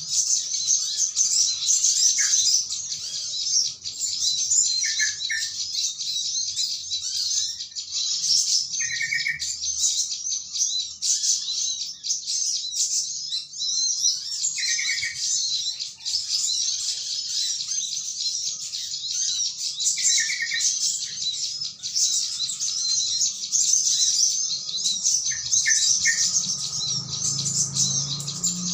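Dense, unbroken high chatter of a flock of small birds. Short, lower calls from a yellow-vented bulbul come through every four to six seconds.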